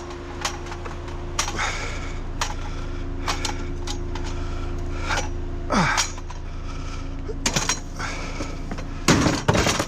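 Light metal clinks and clanks as a scrap metal object is handled and folded up, with a short falling squeak a little before six seconds and a louder rattle a little after nine seconds. A steady low hum runs underneath.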